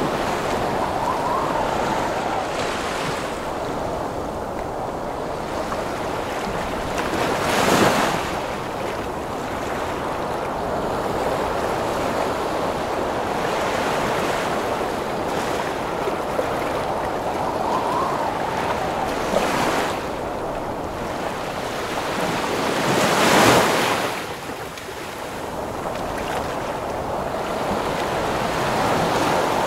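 Heavy ocean surf under storm wind: a continuous wash of water and wind, with waves breaking loudest about eight seconds in and again about twenty-three seconds in.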